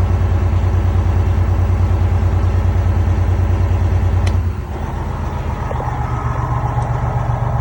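Freightliner Columbia's diesel engine running with a steady low pulsing rumble. A sharp click comes about four seconds in, and just after it the engine note changes, a little quieter and slightly higher.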